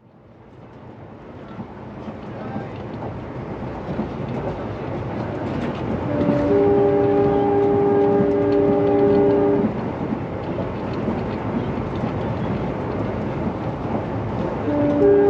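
Indian Railways WDP4B diesel locomotive, an EMD design: steady engine hum and rolling noise that grows louder over the first several seconds. Midway it sounds its multi-tone air horn once, a chord of several notes held for about three and a half seconds that cuts off sharply. The horn starts again near the end.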